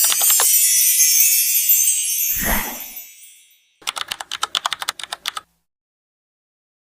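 Edited intro sound effects: a high, sparkling shimmer with a sweep and a low thud about two and a half seconds in, then a quick run of about a dozen typing-like clicks, after which the sound cuts to dead silence.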